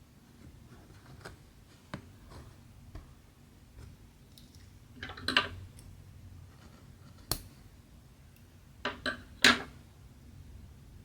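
Small hard objects being handled at close range: scattered light clicks and taps, a sharp click a little after seven seconds, and two short clatters about five and nine and a half seconds in.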